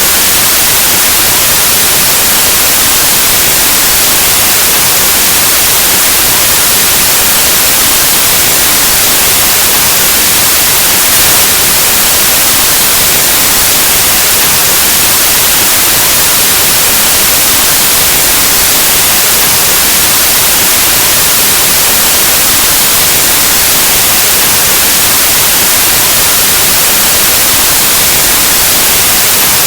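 Steady white noise: an even, constant hiss like analog TV or radio static, loud and unchanging.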